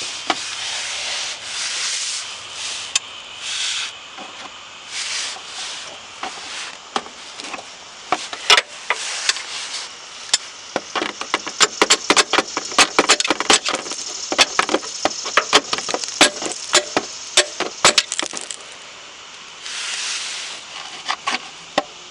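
A metal butter knife scraping and rubbing in the sealant-stuck seam between a Toyota Corolla's oil pan and the engine block as it is worked in to pry the pan loose. In the middle there is a long run of quick, sharp clicks and taps, several a second, and then more scraping near the end.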